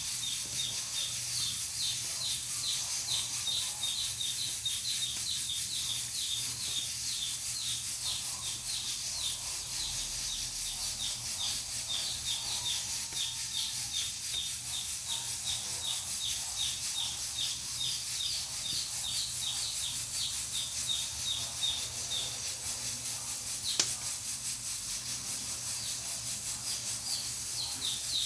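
Pressure cooker hissing steadily as steam escapes. Over it runs a fast train of short high chirps that breaks off for a few seconds about 22 seconds in. There is a single sharp crack about 24 seconds in.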